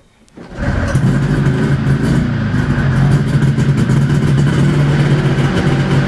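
1974 Arctic Cat Panther 340 snowmobile's two-stroke engine catching about half a second in on a cold start, then running steadily and loudly.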